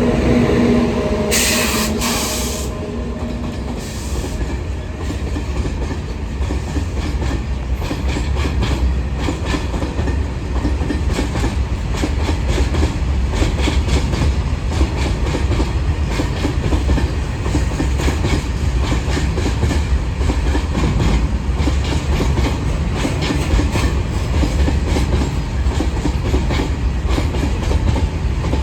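Long goods train rolling past, its wagon wheels clicking over the rail joints above a steady low rumble. A pitched hum fades in the first few seconds, and a brief hiss comes about two seconds in.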